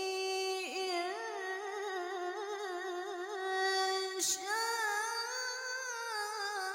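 A woman reciting the Quran unaccompanied in melodic tilawah style. She draws out one long ornamented phrase with wavering pitch, takes a quick breath about four seconds in, then begins the next word, 'in'.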